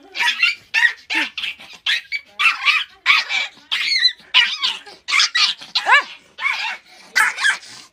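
A dog barking over and over in short, high-pitched yaps, about two a second, some of them sliding up and down in pitch.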